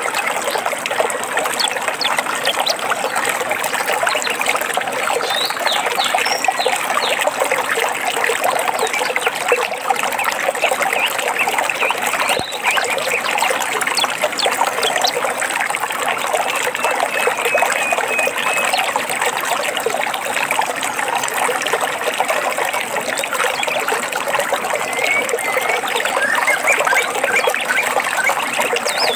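A stream trickling and babbling steadily, with a few short bird chirps and a brief whistle over it.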